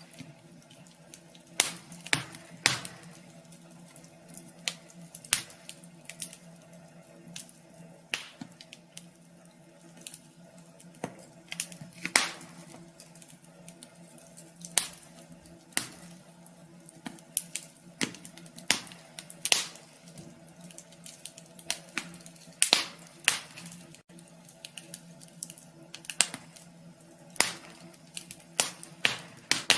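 Wood fire crackling in a wood stove: sharp, irregular pops and snaps, a few every second and varying in strength, over a faint steady hum.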